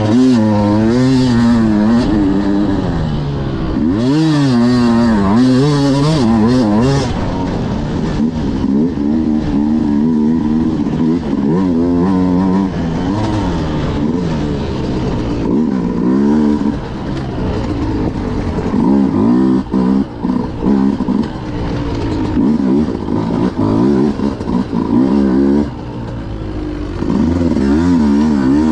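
Beta RR 200 two-stroke enduro motorcycle engine being ridden hard, its pitch climbing and falling again and again as the throttle is opened and closed, with a few brief lulls off throttle in the second half.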